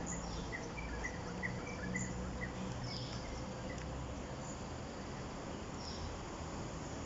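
Outdoor birdsong and insects: a run of short bird chirps in the first couple of seconds and a few descending calls later, over a steady insect drone and a low rumble.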